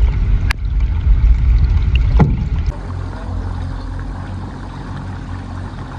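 Small fishing boat under way on a lake: a heavy low rumble of the hull and water with a couple of sharp knocks, then about three seconds in a steadier low hum.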